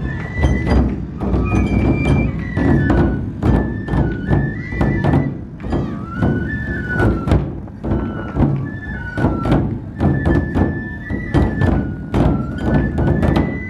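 Matsue dō-gyōretsu festival music: large dō drums beaten in a fast, dense rhythm while a bamboo flute plays a stepping melody of held notes over them.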